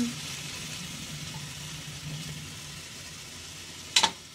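Chicken ribs sizzling as they brown in a hot stainless steel wok, over a steady low hum, with one sharp clank of the metal ladle against the wok about four seconds in.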